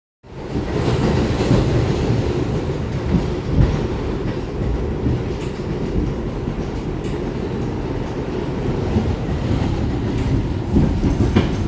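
A New York City Subway 1 train running through 125 Street station on its steel elevated viaduct: a steady, loud rumble of steel wheels on the rails, with scattered sharp clicks. It starts suddenly in the first moment.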